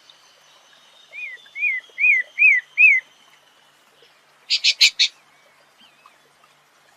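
A songbird singing: five clear whistled notes, each rising then falling and each louder than the last, then a burst of four quick harsh notes.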